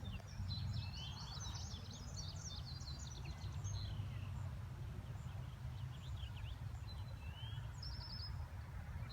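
Several small birds chirping and twittering over a steady low background rumble.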